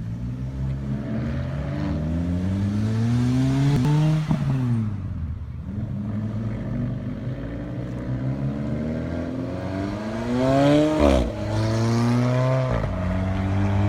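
Car engine accelerating, its pitch climbing and then falling away, twice: about four seconds in and again about eleven seconds in.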